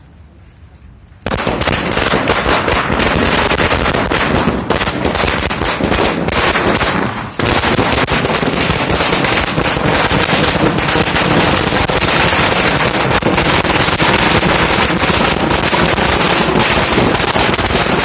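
A Praveen Fireworks 1000-wala firecracker string going off: about a second in it bursts into a dense, unbroken rattle of small bangs that carries on, with a brief dip just past the middle.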